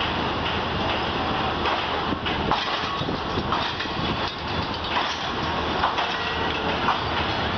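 Passenger train running on the rails: a steady rumble and rattle with irregular knocks and clacks from the wheels and carriages.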